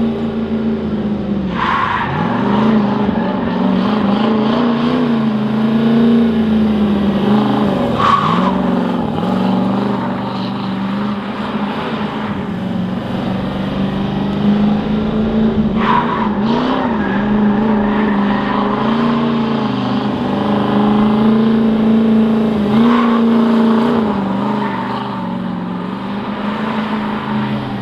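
Drift truck's engine held at high revs through figure-eight drifts, with tyres squealing. The revs dip briefly and climb back four times, about every six to eight seconds, as the driver clutch-kicks into each slide.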